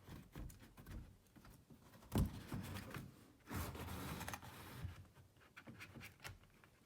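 A 20 by 25 by 1 HVAC air filter being worked out of its slot: scraping and rubbing of the filter against the housing, with a sharp knock about two seconds in and a longer stretch of scraping just past the middle.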